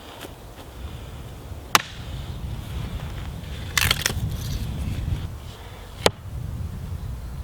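Dry wood cracking and snapping as kindling is prepared for a campfire: a sharp crack, a quick cluster of cracks a couple of seconds later, and another single crack, over a low rumble.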